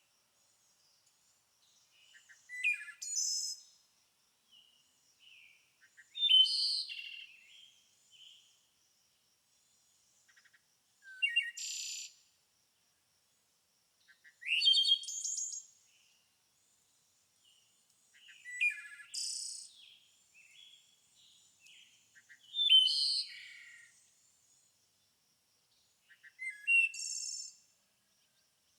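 A songbird singing short, chirpy phrases, one about every four seconds, with quiet gaps in between.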